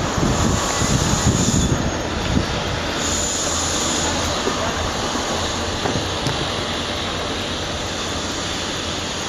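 Freight train rolling past on the rails, a steady rumble of wagons with a faint high wheel squeal coming and going.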